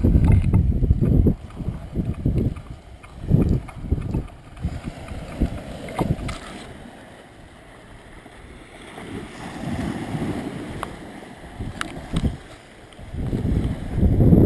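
Wind buffeting the microphone while cycling, a gusty rumble that is loud at first, eases off through the middle and rises again near the end, with a few sharp clicks.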